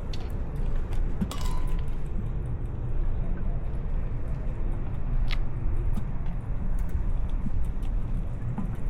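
Bicycle ride noise: steady low rumble of wind on the microphone and tyres on the road, with scattered light clicks and rattles from the bike.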